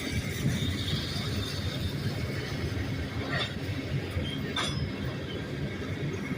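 Cars of a loaded rock train rolling past, a steady low rumble of wheels on rail, with two sharp metallic clinks about three and a half and four and a half seconds in.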